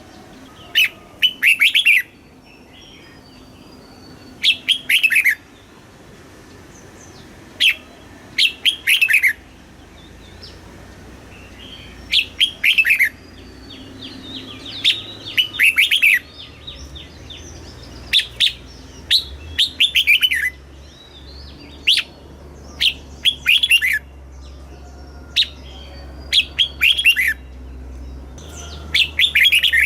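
Red-whiskered bulbul singing: short phrases of quick, falling notes, repeated every second or two.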